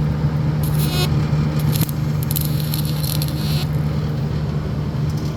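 Miller Gold Star 302 welding power source switched on and humming steadily. Short bursts of high crackling and scraping come about a second in and again for about a second and a half further on.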